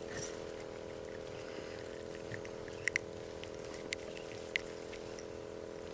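A few short, sharp clicks and taps from handling a small mangrove snapper to unhook it, over a steady low hum.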